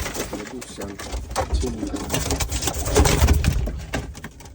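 Domestic pigeons cooing over a dense, uneven clatter of scuffling and knocking, with a rumble underneath.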